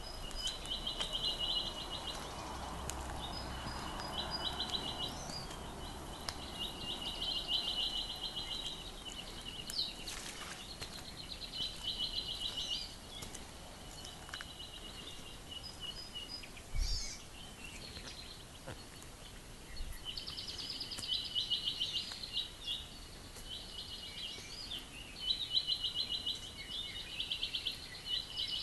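Birds singing repeated high, fast trills, each about a second long, with short gaps and a few brief higher chirps between them. A soft low thump comes a little past the middle.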